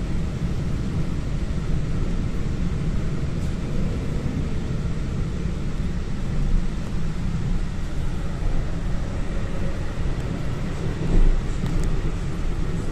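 Steady low rumble of a moving train, with one brief louder bump about eleven seconds in.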